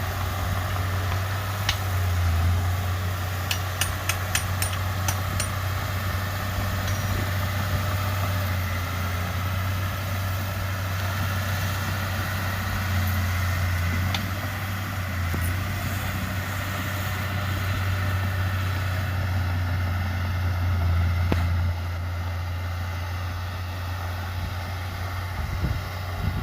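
Heavy earthmoving machine's diesel engine running steadily at an even, low speed, with a few faint metallic clicks a few seconds in.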